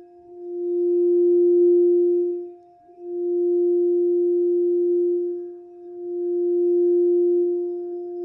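Crystal singing bowl for the heart chakra, played around the rim: one pure, steady tone with a faint octave above it, swelling up and fading back about every three seconds.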